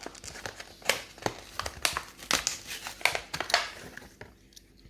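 Plastic blister pack and cardboard card of a carded die-cast toy car crackling and crinkling as it is torn open by hand, in an irregular string of sharp crackles that die away about four seconds in.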